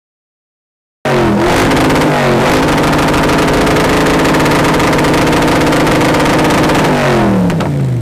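About a second of silence, then an exotic car's engine cuts in already revving, climbs to high revs, holds there steadily for several seconds, and drops back near the end.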